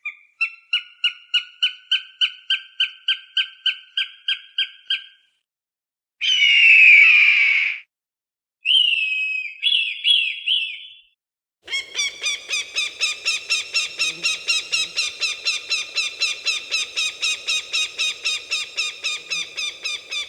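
Falcon cries: a rapid run of sharp repeated calls, about four a second, then a single harsh screech, a few more calls, and a long run of repeated calls, again about four a second. The recordings are cut apart by short gaps of dead silence.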